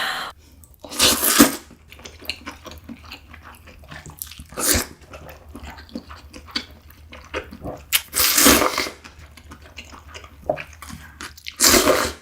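Close-miked slurping of cold broth from a bowl of salmon mulhoe: four loud slurps, spaced a few seconds apart, with faint mouth and chewing sounds between them.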